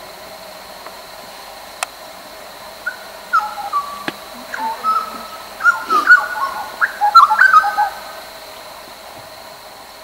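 A bird calling in a quick run of short, clear whistled notes that jump and slide up and down in pitch, starting about three seconds in and stopping about five seconds later. A sharp click sounds shortly before, over a steady high-pitched background drone.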